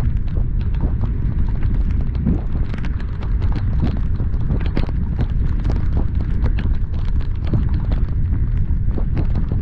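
Heavy rain driving against a moving car, drops striking in many irregular sharp taps over a steady low rumble of wind and road noise.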